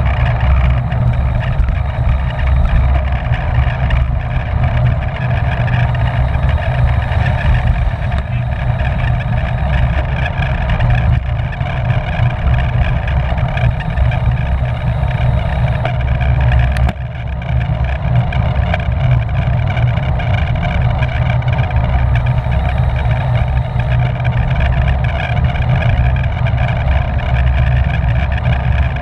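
Steady rush of wind buffeting the microphone of a camera riding along on a racing bicycle at speed, mixed with tyre and drivetrain noise. There is a brief drop in level about 17 seconds in.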